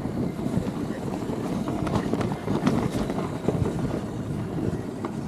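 Fat bike being ridden on a snowy trail: a steady rumble of tyres on snow and wind on the microphone, with a few light clicks.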